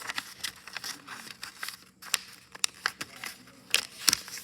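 A sheet of paper being handled and folded: a run of short crinkles and sharp crackles as it is bent and creased, with louder snaps at a few points.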